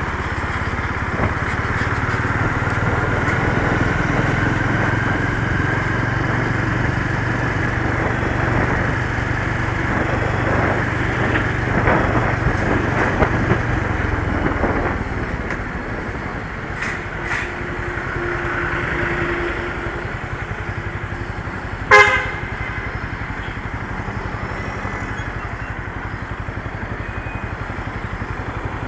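Motorcycle engine running under way, its pitch rising slowly as it pulls, then easing off to a lower, quieter steady run about halfway through. A single short, loud horn beep about three-quarters of the way through.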